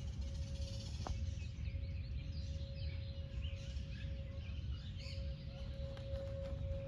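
Small birds chirping here and there over a steady low rumble and a constant faint hum, with a single click about a second in.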